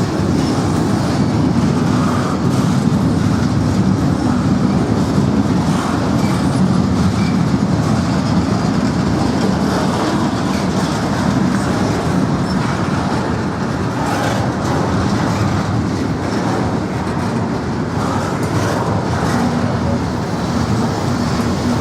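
Norfolk Southern freight train passing close by, its cars rolling steadily along the rails.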